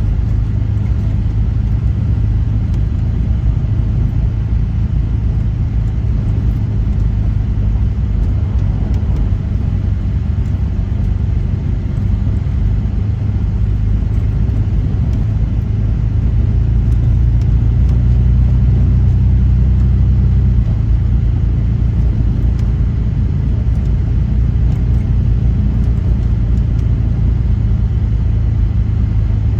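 A vehicle driving slowly, its engine and tyre noise making a steady low rumble that swells a little for a few seconds past the middle.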